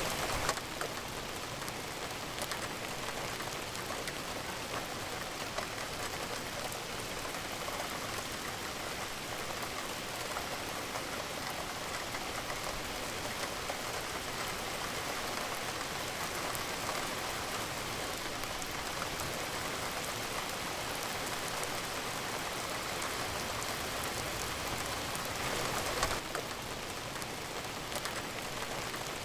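Steady rain falling, a constant hiss of drops, with a brief louder swell near the end.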